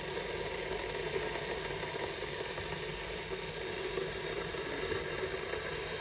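Philips HD9306 1.5-litre stainless-steel electric kettle heating water to the boil, a steady hiss of water coming to a boil.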